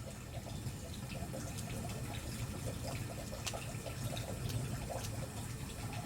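Wood bonfire burning: a steady rush of flame with scattered sharp pops and crackles from the burning firewood.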